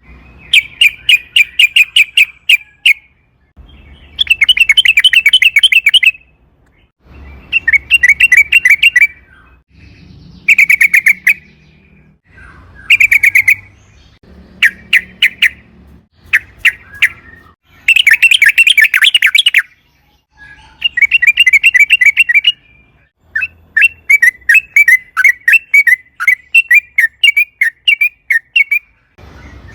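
Yellow-vented bulbul (trucukan) singing in fast chattering phrases of rapidly repeated notes. Each burst lasts one to two and a half seconds, and about a dozen bursts come one after another with short pauses between them.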